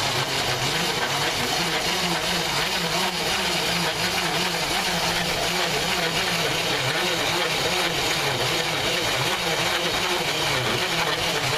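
Bicycle-pedal-driven MayaPedal corn grinder running steadily, re-grinding cornmeal on its fine setting to make it finer, toward flour. The grinding noise swells and fades in an even rhythm.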